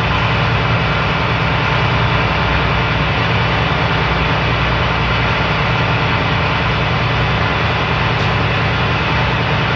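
Loud, steady hum and rumble of a ship's engines and machinery running, unchanging throughout.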